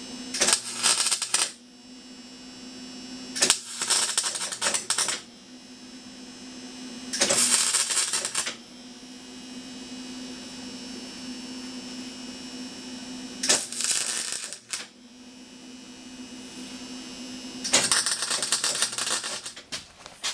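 Wire-feed (MIG) welder laying five short tack welds, each a crackling, sputtering burst of one to two seconds, with a steady hum in between. The welder runs rough, and the owner is unsure whether the wire speed is set too fast or too slow.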